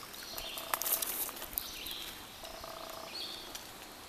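Wild birds calling over the steady rush of a shallow stream, a short call coming back about every two and a half seconds.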